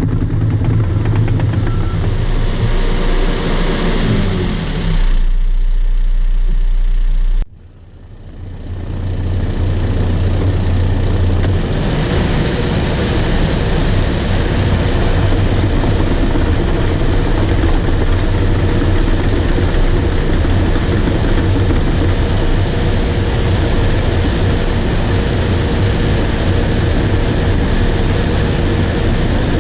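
Bulldozer's diesel engine running steadily with track and dirt noise. About seven seconds in the sound drops off abruptly, then builds back up over a few seconds and carries on steadily.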